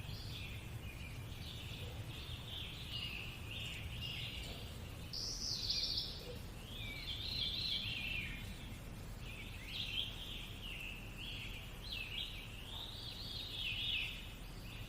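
A nature-sounds recording of small birds singing, with many short chirps and trills one after another, over a faint, steady low hum.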